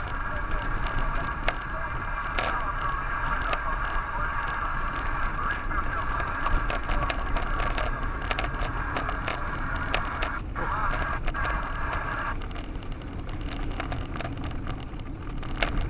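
Road noise inside a moving car: a steady low rumble from the tyres with frequent small clicks and crackles, as over a rough surface. A steady higher hum runs along with it and drops out about three-quarters of the way through.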